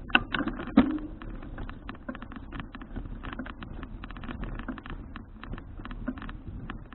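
Folding bicycle and its action-camera mount rattling and clicking in quick irregular bursts while riding over a rough surface, with a low rumble underneath. There are a few sharp knocks in the first second.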